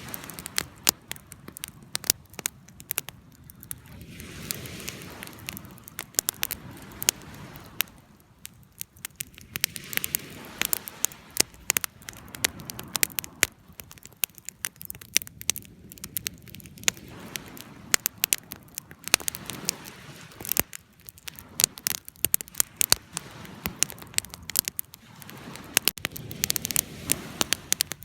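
Wood fire burning and crackling: many sharp pops and snaps, irregular and dense, over a soft rush of flames that swells and eases every few seconds.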